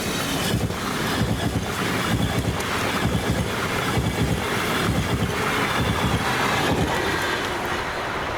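A train passing close by: a rumble and rushing noise that builds, holds with an uneven pulsing, and eases a little near the end.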